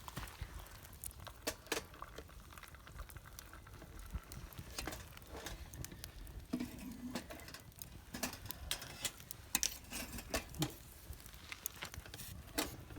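Food cooking over a campfire: irregular crackles and sharp pops over a low rumble.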